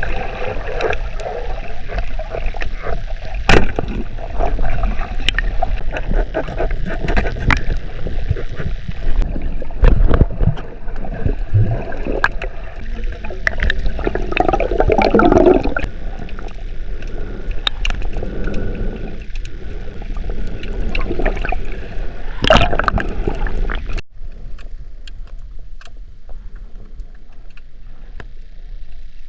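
Water sloshing and gurgling close to the microphone, with many scattered sharp clicks and knocks. A louder gush comes in the middle. About two-thirds of the way through the sound cuts abruptly to a quieter, thinner wash of water.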